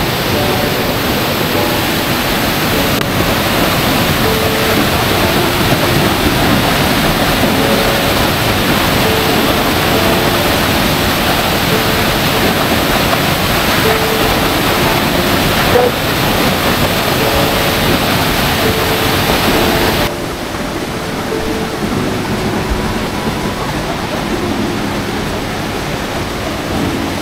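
Waterfall rushing, a steady noise of falling water. About twenty seconds in it becomes quieter and duller.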